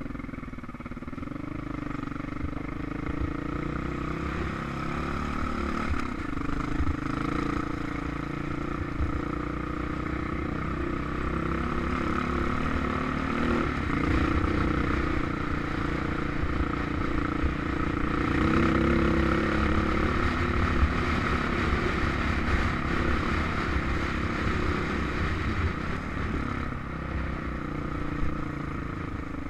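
Single-cylinder dual-sport motorcycle engine running at a steady, moderate pace, its note rising and falling only a little, over a low rumble.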